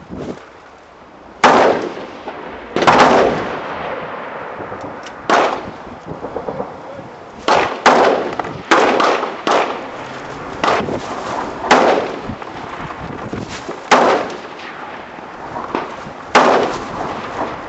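Rifle fire from a BCM AR-15-pattern carbine with a 14.5-inch mid-length barrel: about a dozen single shots at an uneven pace, each sharp report trailing off in a ringing echo. Steady noise lies between the shots.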